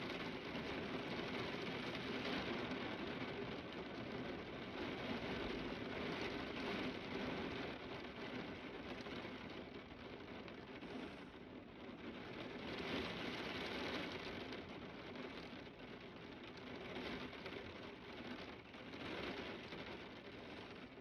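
Steady rain pouring, a dense even hiss that swells and eases every few seconds.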